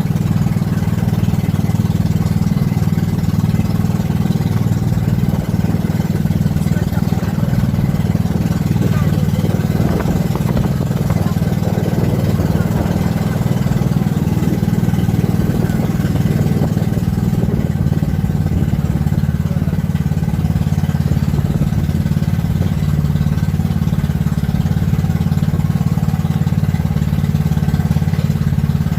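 An engine running at a steady, unchanging drone, low in pitch.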